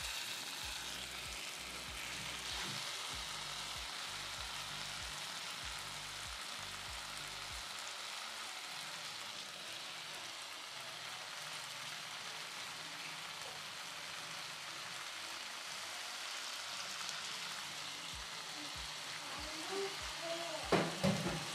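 Chopped tomatoes frying in a stainless-steel saucepan, a steady sizzling hiss, while amaranth leaves are piled in and stirred with a wooden spoon. Near the end come a few sharp knocks of the spoon against the pot.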